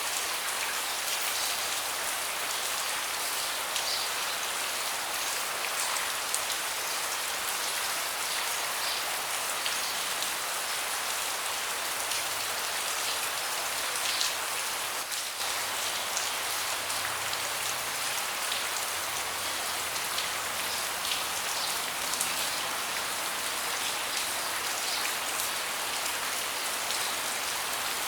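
Steady rain falling on a deck: a dense, even hiss with many scattered sharper drop ticks.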